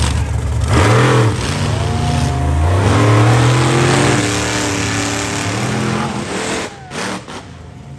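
Monster truck engine revving hard, its pitch rising and falling repeatedly, then dropping away sharply near the end.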